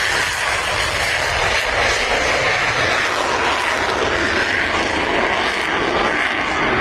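Fighter jet engine and airflow noise: a steady, loud rushing sound with no breaks.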